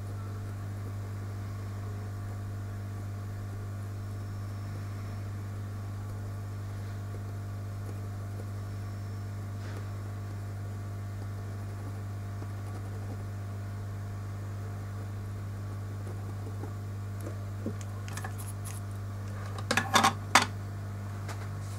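Steady low hum of bench equipment, with a few light clicks and taps of small tools or parts handled on the workbench near the end.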